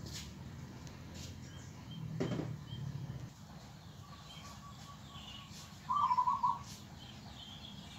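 A bird gives one short warbling call about six seconds in, over small scattered chirps from other birds and a steady low hum. There is a brief thump about two seconds in.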